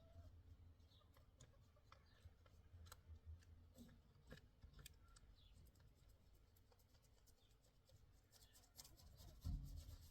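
Faint scattered clicks and light scraping, with a dull thump near the end.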